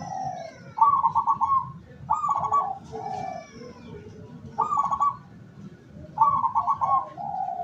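Zebra dove cooing: four phrases of quick pulsed, rattling coos, each about half a second to a second long, with softer lower coos between them.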